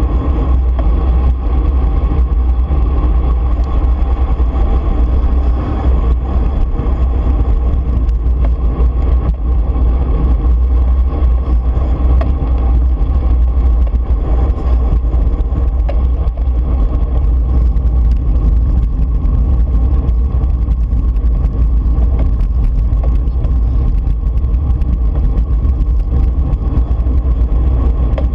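Steady wind rumble on the microphone mixed with road and tyre noise from a road bike riding along, loud and unchanging throughout.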